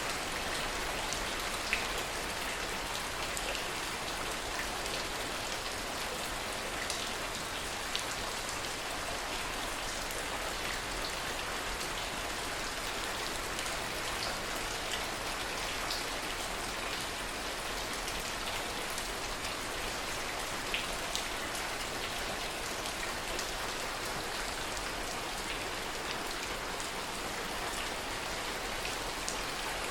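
Steady rain falling, an even hiss with the sharp ticks of single drops striking here and there.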